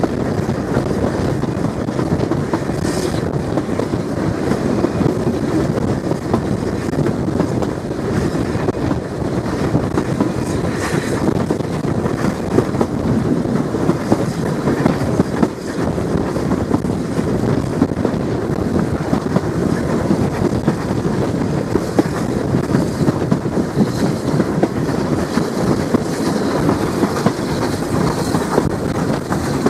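Heritage passenger train hauled by an SECR C class 0-6-0 steam locomotive running along the line: a steady rumble with continual small clicks and rattles of the carriage wheels on the track.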